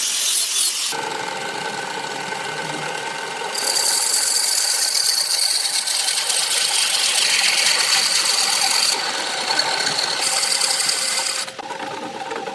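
Electric power tools working wood, each running with a steady motor whine. The sound changes abruptly about a second in, again around three and a half seconds, and twice more near the end, as one tool gives way to another.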